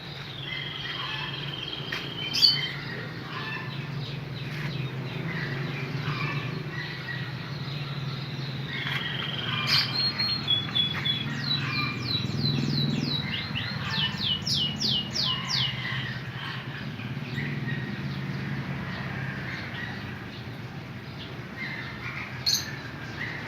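Canary singing: held whistled notes and chirps, with a fast trill of repeated sweeping notes about two-thirds of the way through. A few sharp clicks, the loudest about two seconds in, and a steady low hum run underneath.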